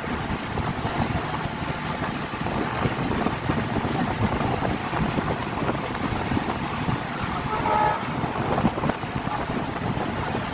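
Steady rumble and rushing noise of a train running along the track, heard from aboard, with a brief horn toot about seven and a half seconds in.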